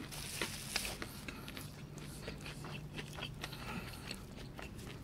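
Close-miked chewing of a mouthful of puff-pastry beef Wellington: many small, wet mouth clicks. A paper tissue rustles against the mouth in the first second.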